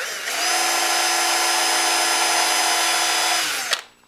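Electric drill spinning up and running steadily for about three and a half seconds while drilling screw holes into a wooden cabinet pull, then slowing and stopping with a sharp knock.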